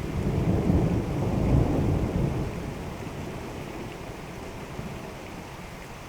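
A roll of thunder that swells at once, rumbles deeply for about two and a half seconds, then dies away, over steady rain falling.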